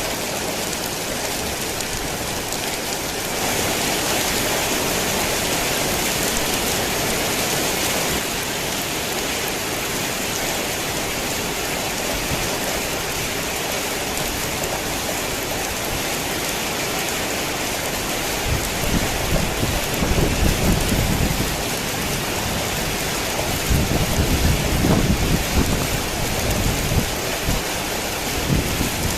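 Heavy rain falling in a dense, steady hiss. Two low rumbles of thunder come in about two-thirds of the way through, one after the other.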